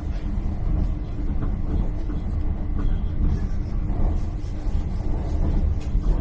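Steady low rumble of a Great Western Railway Class 800 Intercity Express Train running at speed, heard from inside a passenger carriage, with a steady hum and faint scattered rattles.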